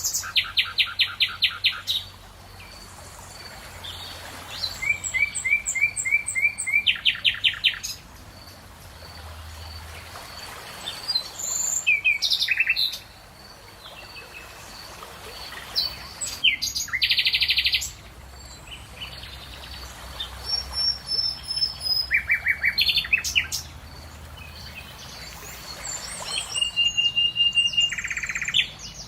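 Songbirds singing in turn: phrases of fast trills and whistled note series every few seconds, over a faint steady hiss, with a soft high peep repeating underneath.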